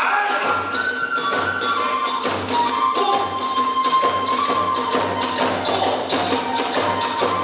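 Hiroshima kagura accompaniment: a bamboo flute playing a held, wavering melody over fast, steady drumming and clashing hand cymbals, with a deep drum beating underneath.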